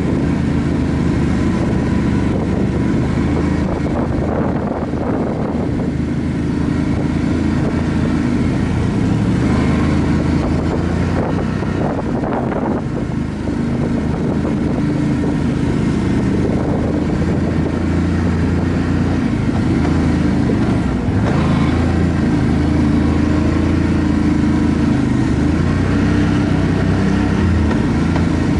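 ATV engine running steadily under way, with small changes in pitch as the throttle varies.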